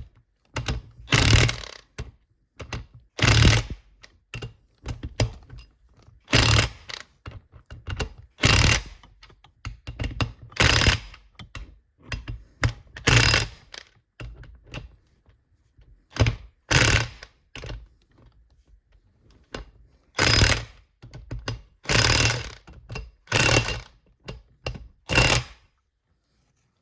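Metal transmission parts and hand tools clanking and clicking during gearbox work on a manual transmission's gear stack: about a dozen short, loud metallic knocks at irregular intervals, with small clicks between them.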